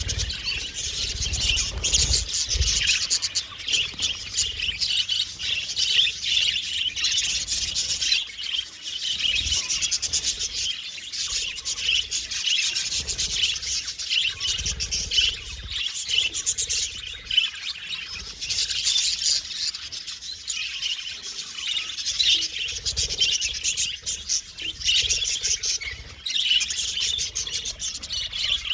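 Several budgerigars chirping and warbling in long, rapid, high-pitched chatter that comes in waves of a few seconds each.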